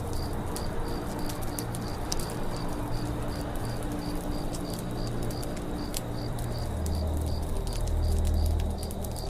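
Campfire crackling, with scattered sharp pops over a low steady rumble that swells briefly near the end. A high, even chirp repeats about three times a second in the background.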